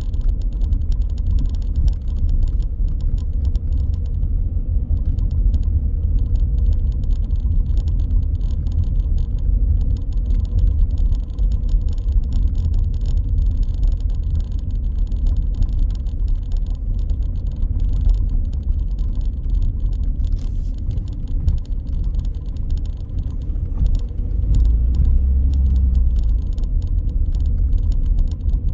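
A car driving on city streets: a steady low rumble of road and engine noise, swelling briefly near the end.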